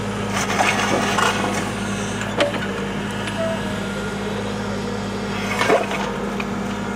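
Takeuchi TB290 small excavator's engine running with a steady hum, with scattered sharp cracks and knocks on top; the clearest come about two and a half seconds in and near the end.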